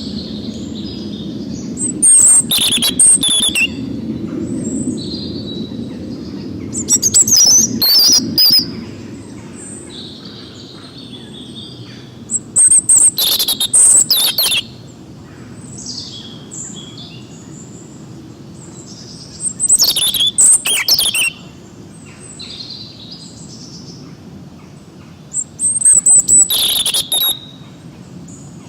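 Songbirds singing: a loud, rapid song phrase comes about every five to six seconds, five times, with softer chirps from other birds in between, over a low rumble that fades away in the first ten seconds.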